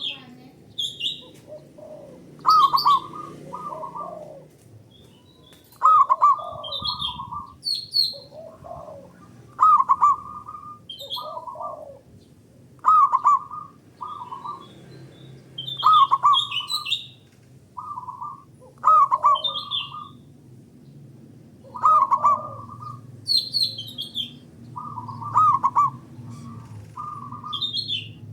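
Zebra doves (perkutut) cooing, calling back and forth in repeated phrases about every three seconds. Each phrase is a run of low coo notes with shorter, higher notes between them.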